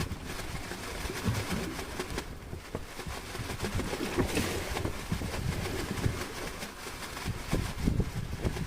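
Strong wind buffeting the microphone on a small boat at sea: an uneven low rumble with gusts, with no steady engine tone.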